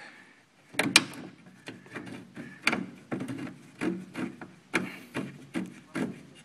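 A wrench turning a radiator mounting bolt: a run of short scraping clicks, about two a second, starting about a second in.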